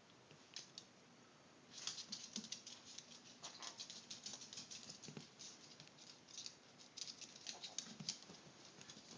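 Light, quick claw clicks of small pets' feet pattering across a hard floor, starting about two seconds in and running on in an uneven stream.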